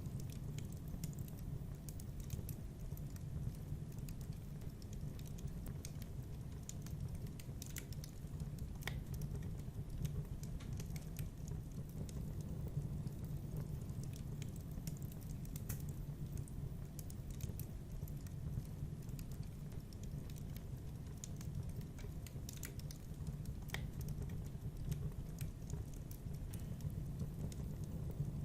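Wood fire burning in a fireplace: a steady low rumble of flames with scattered sharp crackles and snaps.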